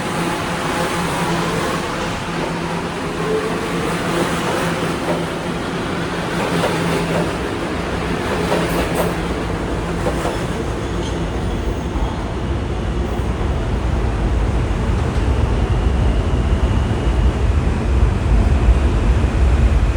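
New York City Subway R211A train running on the tracks, with electric motor whine and wheel-on-rail noise. A deep rumble grows steadily louder in the second half.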